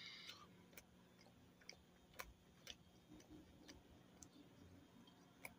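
Near silence with faint chewing: a few soft mouth clicks at uneven spacing over a low steady room hum.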